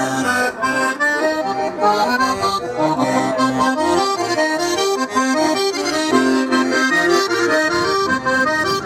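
Lively accordion tune with a quick melody over a steady accompaniment, played continuously and loud.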